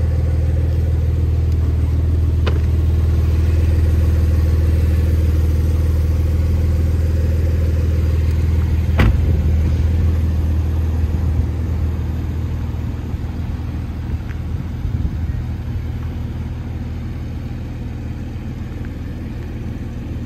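Porsche 911's flat-six engine idling steadily, with one sharp thump of a car door shutting about nine seconds in. The idle grows a little quieter in the second half.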